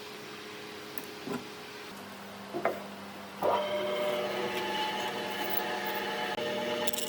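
A few light knocks, then about halfway through a woodworking power tool's motor starts and runs steadily with a whine.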